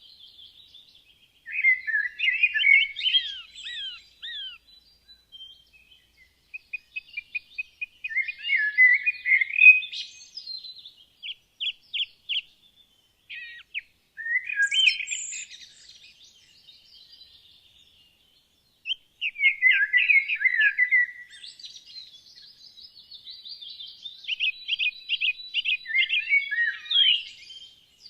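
Woodland songbirds singing: warbled phrases of about two seconds, repeated every five or six seconds, with runs of quick separate notes between them and a faint high thin note held in the background.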